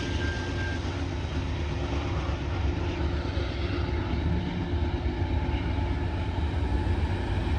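Freight train rolling past: a steady rumble of cars on the rails.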